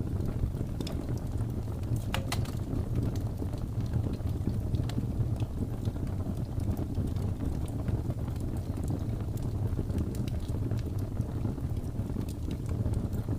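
Wood fire crackling with scattered sharp pops and snaps over a steady low rumble of blizzard wind.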